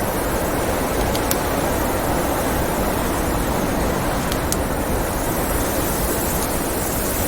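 Steady blizzard wind rushing, with a few sharp crackles from a wood fire in a fireplace.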